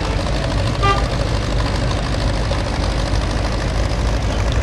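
Batmobile replica car's engine running steadily at low revs, a low even exhaust rumble, with a short high-pitched sound just before a second in.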